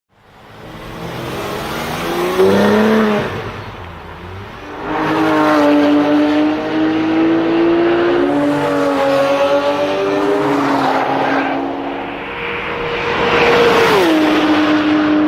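Porsche 997 GT3 RS 4.0's flat-six through an Akrapovic exhaust, loud. A quick rev comes about two seconds in, then the engine pulls hard for several seconds with its pitch stepping between gears. Near the end the pitch drops sharply and holds steady.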